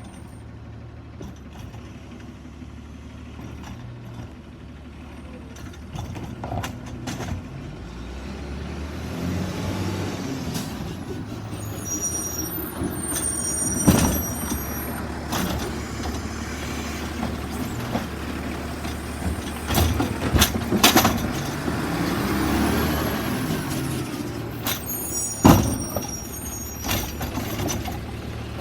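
Autocar Xpeditor garbage truck with a Bridgeport Ranger automated side-loader body running, its engine revving up and back down twice. There are several sharp bangs near the middle and again near the end, and short hisses.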